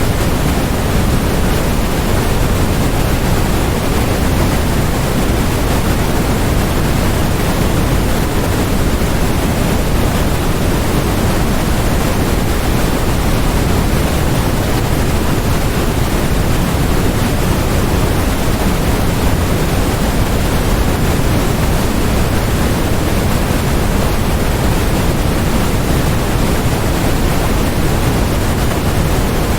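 Steady white noise: a constant, even hiss with its weight toward the low end, unchanging throughout.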